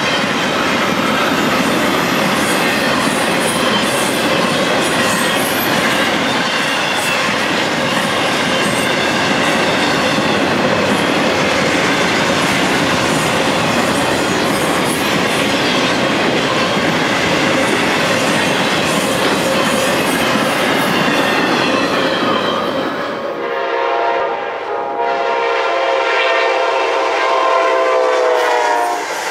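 Freight cars of a CSX intermodal train, carrying truck trailers, roll past with a steady rumble and the clickety-clack of wheels over the rail joints. About 23 seconds in, this gives way to a train horn: a multi-note chord sounded as a short blast and then a long one, from an approaching Amtrak passenger train.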